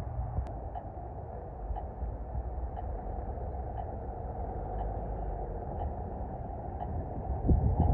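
Wind rumbling on the microphone over low city traffic noise, steady throughout, with a faint tick about once a second and a louder gust near the end.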